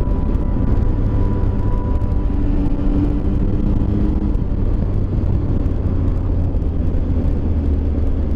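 Motorcycle engine running steadily while riding along at an even speed, with a constant low hum from the road.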